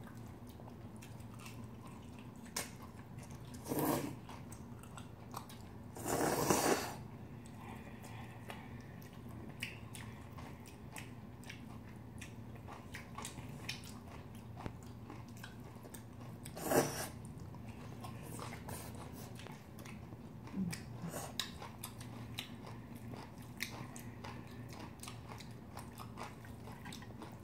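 Close-up eating sounds: chewing and biting of cold spicy buckwheat noodles and stir-fried pork belly with green onions, with many small clicks and a few louder noisy moments, the longest about six seconds in. A faint steady hum runs underneath.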